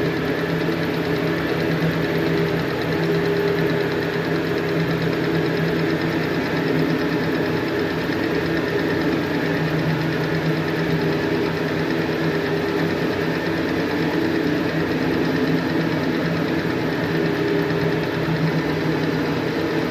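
Lathe running steadily while turning a taper on a workpiece, a continuous machine hum with a few steady tones over a wider grinding noise.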